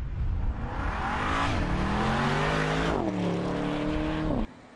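2017 Porsche Panamera's twin-turbocharged V8 accelerating hard. The engine note climbs and drops back twice as it shifts up, then cuts off suddenly near the end.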